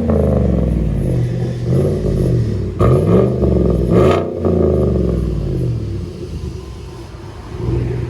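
2017 Chevy Silverado Z71's 5.3L V8 with the muffler and resonator deleted (straight pipes, 5-inch tip) being revved: four quick blips, each rising and falling back, then settling to idle over the last couple of seconds.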